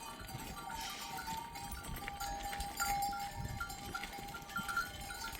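A flock of sheep and goats on the move, their neck bells ringing and clinking steadily.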